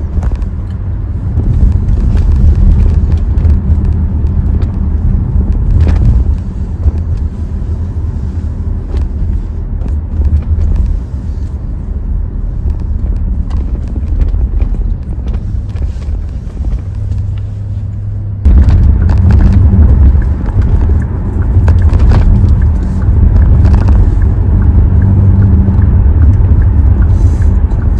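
Hyundai Tucson on the move, heard from inside the car: a steady low engine and exhaust drone with road noise. It gets suddenly louder about two-thirds of the way through and stays that way.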